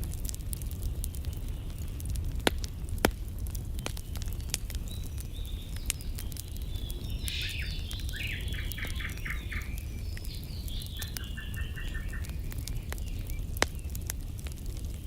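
Campfire crackling, with scattered sharp pops over a low steady rumble. In the middle a bird sings a rapid series of repeated notes for about four seconds.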